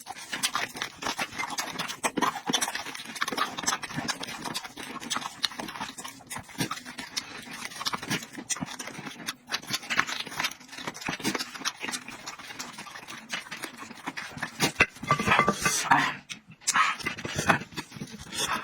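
Close-up eating sounds: a person chewing food with quick, wet mouth clicks and smacks, with a louder, denser stretch about three-quarters of the way through.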